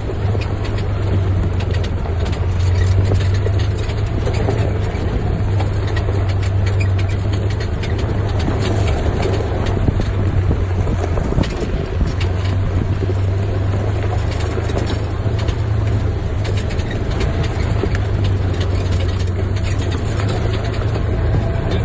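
Off-road vehicle driving slowly on a rough, rocky mountain trail: a steady low engine drone with frequent knocks and rattles from the vehicle jolting over the ground.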